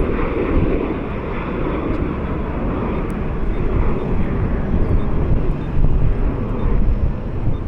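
Jet engines of a departing Southwest Boeing 737 airliner, a steady loud roar with deep rumble.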